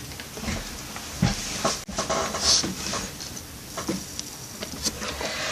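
A sheet of paper being handled and folded by hand: irregular rustling and crinkling, with a few sharper crackles as it is creased.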